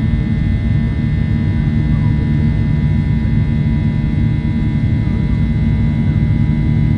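Boeing 737-800's CFM56 jet engines heard inside the cabin: a loud, steady rumble with a few steady whining tones above it.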